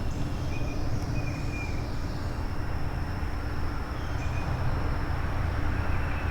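Steady rush of flowing creek water and wind, with a few faint short bird chirps.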